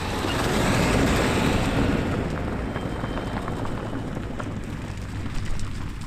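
Storm noise: heavy rain with a dense patter of drops under a rushing roar that swells about a second in and slowly dies away.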